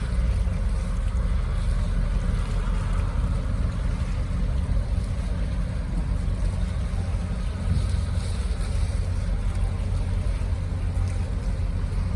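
Steady low rumble of a ship's engines, with a faint steady hum and a haze of wind and water noise over it.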